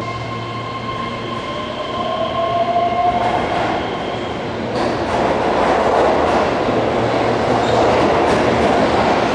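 Keihan electric train moving at the platform in an underground station. A whine from the electric drive holds steady tones with one slowly rising tone for the first few seconds. About five seconds in it gives way to a louder running rumble with rapid clicks of the wheels over the rail joints.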